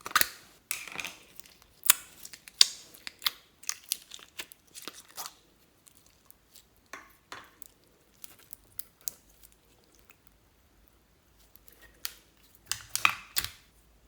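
Slime being pressed and stretched by hand, giving off irregular clusters of crackles, clicks and small pops from trapped air, with quieter gaps between.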